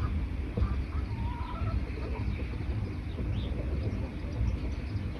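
Forest birds chirping with short, scattered calls, over a steady low rumble.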